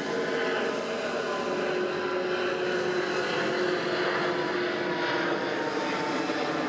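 Jet aircraft engines running steadily in an airshow fly-by, a broad rushing noise with a faint whine that falls slowly in pitch.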